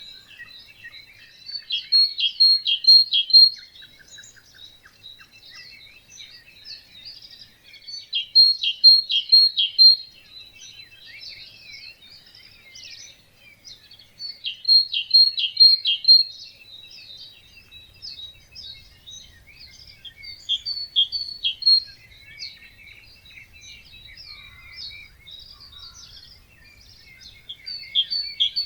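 Birds singing at a wetland at dawn: a chorus of several birds chirping over one another. One nearer bird repeats a loud short song of quick repeated notes about every six seconds.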